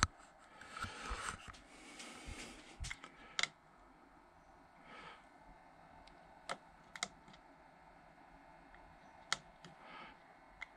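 Irregular clicks and light handling noises: buttons being pressed on a diesel heater's controller.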